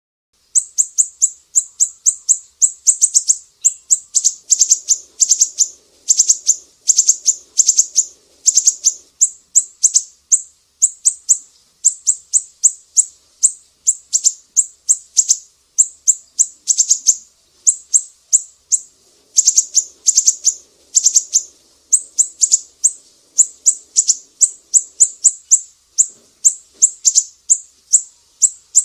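Siri-siri songbird from Sumatra singing a fast, almost unbroken run of sharp, high-pitched chirps, several a second.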